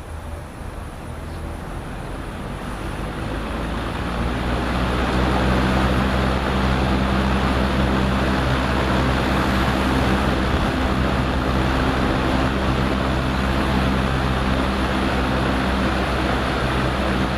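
Vintage Frigid B3300 box fan, with a Westinghouse motor and four-wing metal blades, running on high: it spins up over the first five seconds or so, then runs steadily, a rush of air over a low hum.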